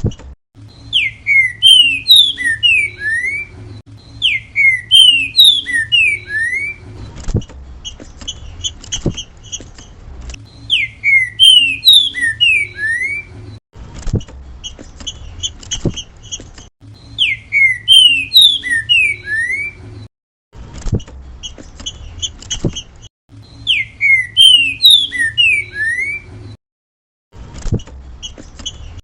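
Trinca-ferro (green-winged saltator) singing its 'grego mole boi' song: a short phrase of loud, clear whistled notes, repeated about every six seconds, with softer repeated notes between the phrases. A low steady hum and a few sharp clicks lie under the song.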